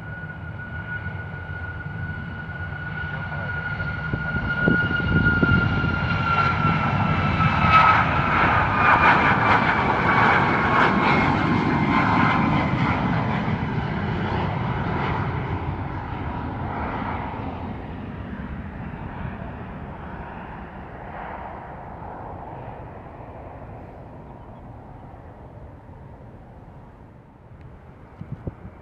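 Jet airliner passing by. Its engine whine slides down in pitch as it goes past, growing loudest about a third of the way in, then slowly fading away.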